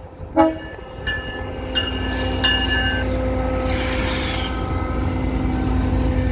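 GO Transit train horn sounding a series of about four short blasts over the low rumble of a train running past, followed about four seconds in by a brief hiss.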